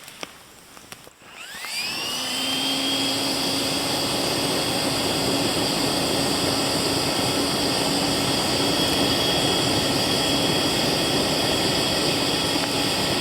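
Flextail battery-powered air pump switched on about a second in, spinning up with a rising whine, then running steadily with a loud rush of blown air.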